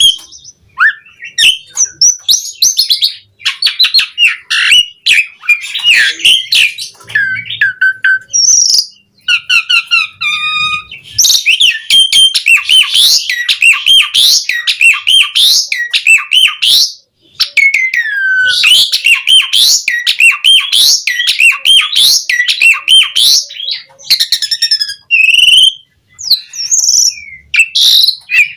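Asian pied starling (jalak suren) singing in full voice: a long, varied song of clear whistles, rapid chattering runs and harsher notes, rich in mimicked phrases, with short pauses about 9 and 17 seconds in.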